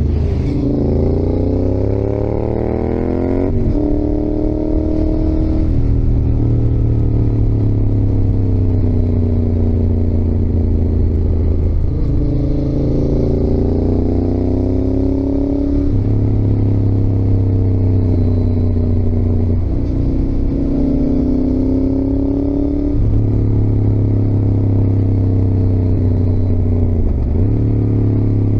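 Yamaha XSR700's CP2 parallel-twin engine (270° crank) pulling hard, its pitch rising through each gear and dropping sharply at every upshift, several times over, with stretches where the revs fall away as the throttle is eased between pulls.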